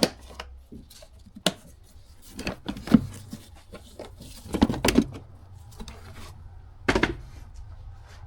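Hands working plastic trim clips and a plastic engine-bay cover off: a series of separate sharp clicks and knocks, the loudest about three, five and seven seconds in.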